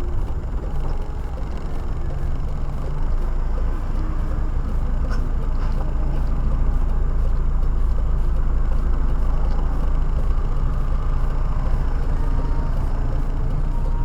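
A car driving, heard from inside the cabin: a steady low rumble of road and engine noise that grows slightly louder over the first few seconds.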